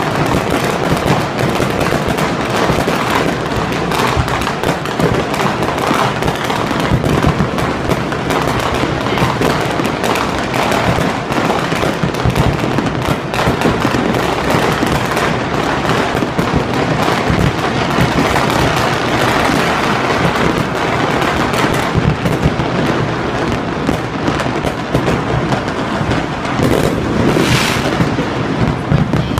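Many fireworks going off at once: a continuous, dense stream of overlapping bangs and crackles with no let-up.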